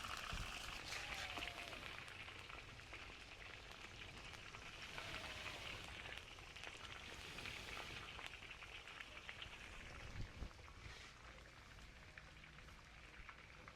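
Faint, steady crackling sizzle of food frying in a cooking pot.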